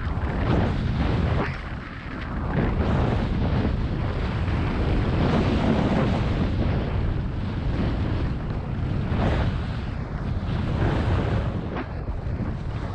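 Wind buffeting a GoPro Hero7's microphone while skiing downhill, with the skis scraping across spring snow in turns every second or two.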